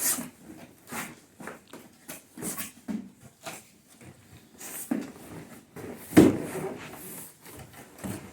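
Cardboard box and packaging being handled and opened: irregular rustles, scrapes and knocks, the loudest about six seconds in.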